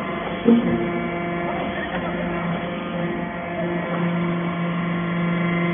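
Steady machine hum from a steel-shaving baler's drive running, with a short knock about half a second in.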